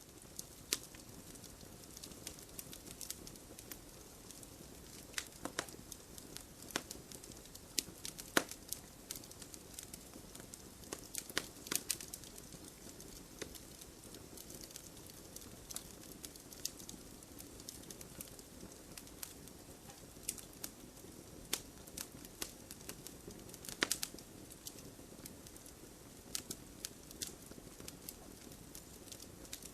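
Wood fire burning in a fireplace: irregular sharp crackles and pops, a few of them louder, over a low steady hiss of the flames.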